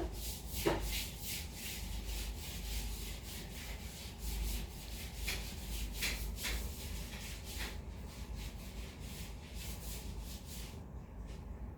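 A steady series of rubbing or scratching strokes, a few a second, that stops suddenly near the end.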